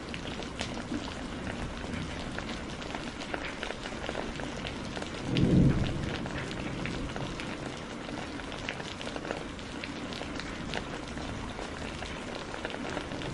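Steady rain with scattered sharp crackles from a fireplace fire. About five and a half seconds in, a short low rumble of thunder.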